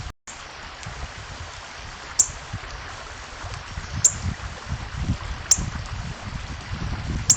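Four sharp, high chip notes from a small bird at a feeder, each very short and falling, spaced about one and a half to two seconds apart. They sit over a steady rushing background noise with low rumbling buffets.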